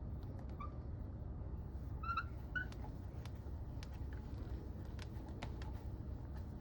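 Small metal clicks and a few short, high squeaks from an impeller puller being worked on a marine raw-water pump, over a steady low hum.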